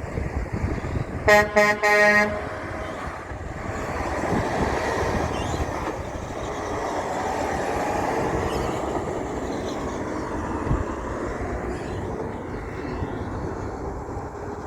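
A big truck's air horn sounds three quick blasts, then the truck passes with engine and tyre noise that builds and slowly fades.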